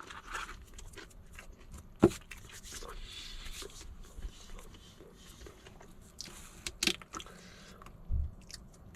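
A person biting into and chewing a sandwich close to the microphone: scattered crunching and mouth sounds, with a sharp click about two seconds in.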